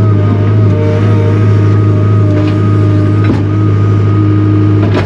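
Takeuchi TL240 skid steer's engine running steadily, with a few sharp knocks about halfway through and near the end.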